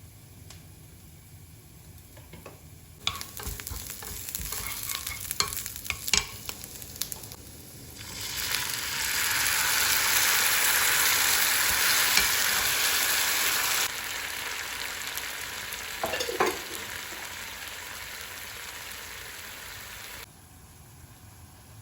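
Kitchen utensils clinking, then food sizzling in a hot pan: a loud, even hiss that drops in level partway through, with a brief squeak, and cuts off suddenly near the end.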